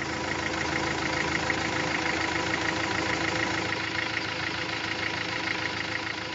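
A motor-vehicle engine idling steadily, slowly fading near the end.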